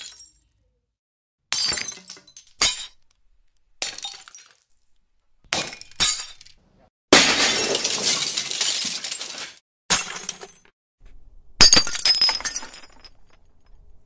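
A string of separate drinking glasses breaking, about nine in all, each a sudden smash trailing off in the ringing of shards, with short silences between. One crash in the middle, lasting a couple of seconds, is the longest and loudest.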